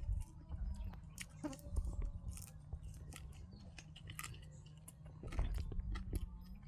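A person chewing and eating food with the mouth close to the microphone: many small wet clicks and smacks over a steady low hum.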